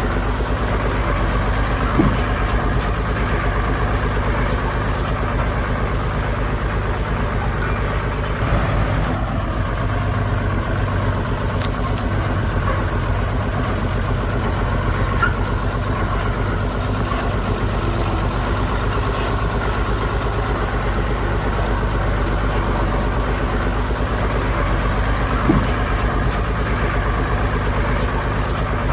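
Diesel engine of heavy construction machinery running steadily, with two short knocks: one about two seconds in and one near the end.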